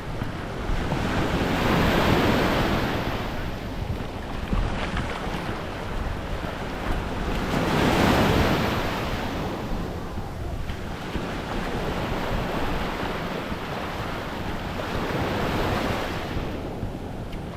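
Small Gulf of Mexico waves breaking and washing up the beach, swelling about every six seconds, with wind rumbling on the microphone.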